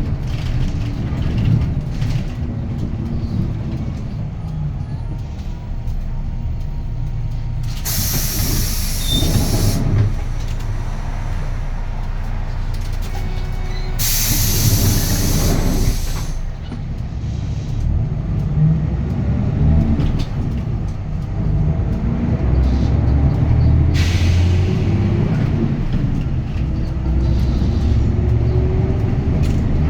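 Hyundai Green City city bus's D6GB diesel engine running, heard from on board, with three loud bursts of compressed-air hiss from the bus's air system, two long ones and a short one. Near the end the engine pitch climbs as the bus pulls away under power.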